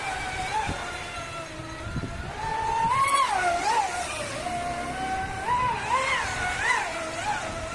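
Electric RC speedboat's motor whining, its pitch rising and falling as the throttle is opened and eased: one swell about three seconds in, then several quick ones near the end.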